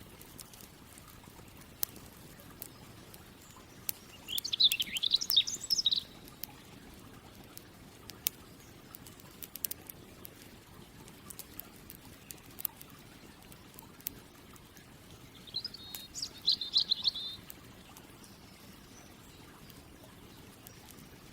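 A campfire crackling with sharp pops scattered throughout, while a songbird sings two short phrases of about two seconds each: one about four seconds in and another about fifteen seconds in.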